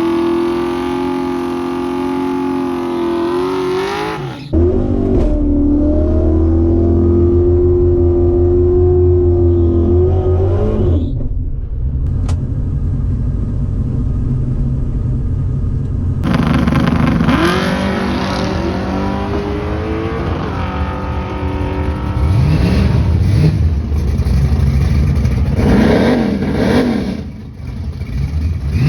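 Drag-race car engines running loud across several spliced clips, with abrupt changes about four and a half seconds and sixteen seconds in. In the later part the engine pitch climbs several times as the cars rev and accelerate.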